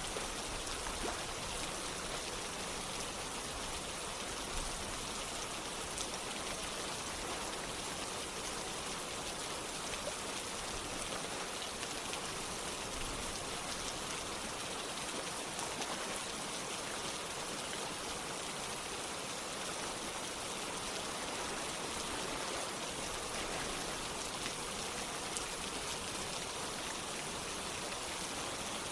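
Steady rain falling, with individual drops pattering on a surface, mixed with the rush of flowing water.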